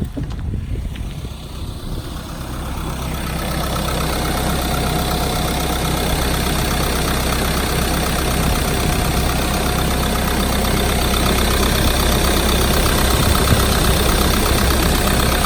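2012 Ford Transit van's engine idling steadily. It grows louder over the first few seconds, then holds even.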